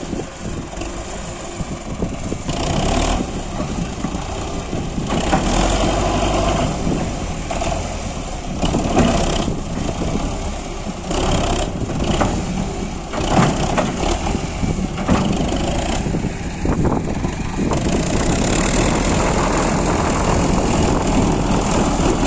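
Belarus 510 tractor's diesel engine running, its level rising and falling, with short sharp knocks and rattles now and then. It grows louder toward the end.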